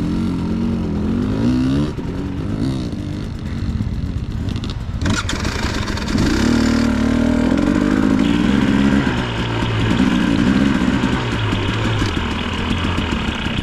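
Dirt bike engine running, its revs rising and falling in uneven blips, with a sharp knock about five seconds in.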